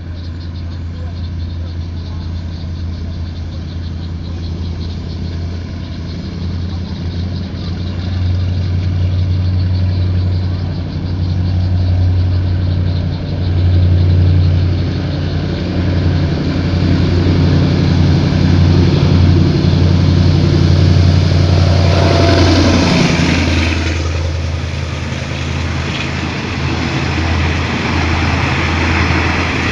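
Diesel locomotive of a passenger train approaching with a steady low engine drone that grows louder. It passes about 23 seconds in with a rush of noise and a drop in pitch, and the train keeps rolling by.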